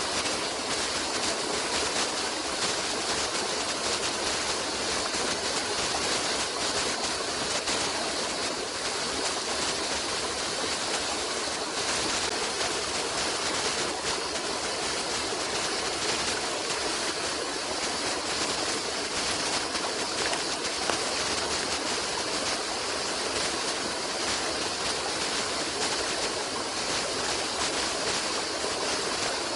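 Water running steadily, an even rushing hiss that does not change.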